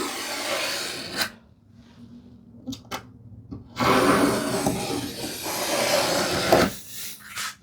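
Marking knife scoring a line across Baltic birch plywood: two long scratching strokes, the second about three seconds long, with a few small clicks between them.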